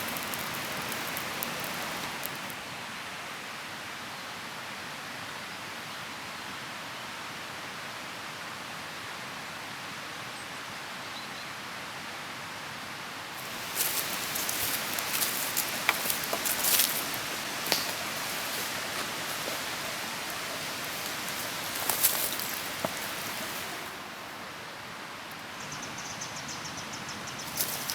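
Steady rain, with scattered rustling and sharp clicks through the middle stretch.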